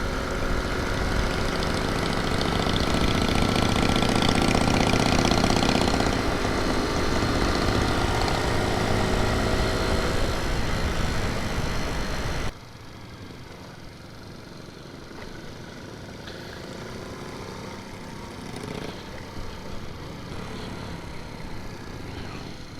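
Honda C90 motorcycle's small single-cylinder engine running under way, with wind and road rush. It cuts off suddenly about halfway through, leaving a much quieter, steady background.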